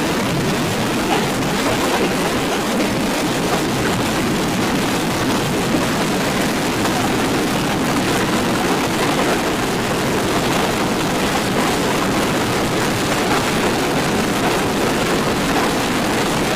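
A steady, loud rushing noise with no pitch or rhythm, holding at an even level throughout.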